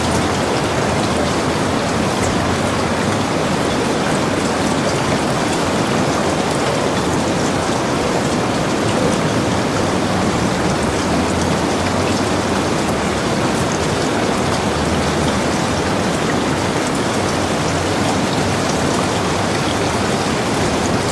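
Heavy rain falling steadily, a dense even hiss with fine drop patter on the surfaces around a log cabin.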